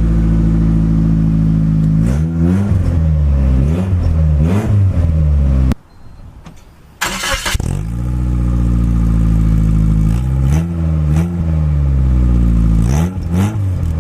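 The 1.6-litre four-cylinder engine of a 1991 Suzuki Escudo running loud and blipped up and down several times, through an exhaust with a cracked weld that is leaking; it's not sounding good. The sound drops away for about a second near the middle, then a short burst of hiss comes in before the engine returns.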